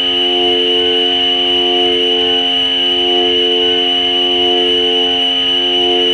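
Electronic drone music from a Korg Volca Modular synthesizer using FM: layered sustained tones under a steady high whine, with the middle tones swelling and fading in a slow, even pulse and a fluttering low throb beneath.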